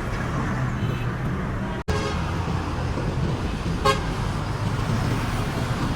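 Steady road traffic rumble, with one short vehicle horn beep about four seconds in. The sound cuts out for an instant just before two seconds.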